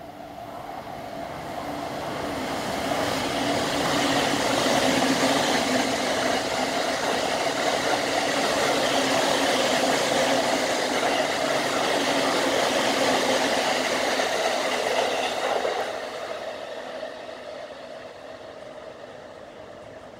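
E231-series Tokaido Line electric train running through the station without stopping, its wheels rumbling on the rails. The noise builds over the first few seconds, holds steady, then fades away about three-quarters of the way through.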